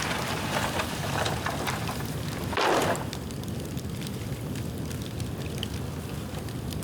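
Dead bamboo burning in an open bonfire: steady flames with many scattered crackles and small pops, and a brief louder whoosh about two and a half seconds in.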